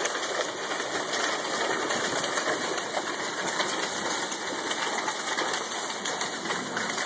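Heavy hail coming down, a dense steady clatter of countless small hailstones striking and bouncing on the ground.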